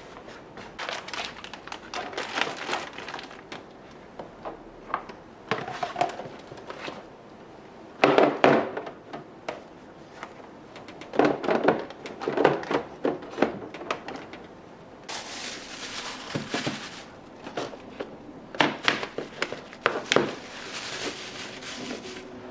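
Household items and plastic storage containers being handled and set down, with irregular knocks and clatters; the heaviest knocks come about 8 s in and again about 11 to 13 s in. Stretches of rustling come about 15 s and about 20 s in.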